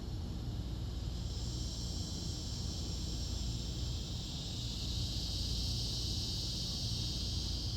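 A steady high, hissing chorus of insects, growing a little louder about halfway through, over a low outdoor rumble.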